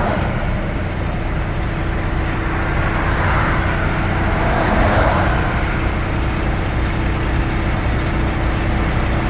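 Diesel truck engine idling: a steady low rumble with a constant hum, swelling a little louder around the middle.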